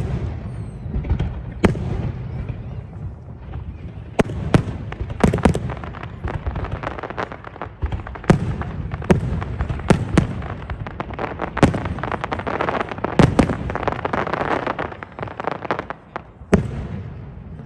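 Fireworks going off in quick succession: a string of sharp bangs, a dozen or more, at irregular intervals. A continuous crackling and rumble fills the gaps between them.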